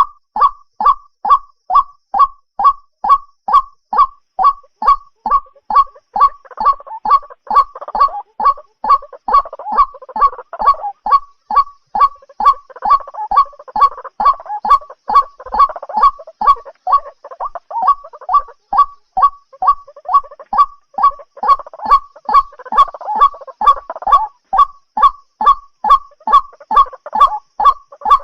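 White-breasted waterhen calling: a monotonous series of short, loud notes repeated evenly about twice a second, with a rougher overlapping chatter of calls joining in at times. This is the call track played to lure waterhens for night trapping.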